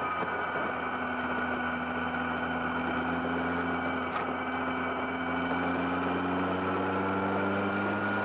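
GBS Zero open-top kit car's engine running under way, heard from the open cockpit, its pitch creeping up slowly as the car gathers speed. A brief tick about four seconds in.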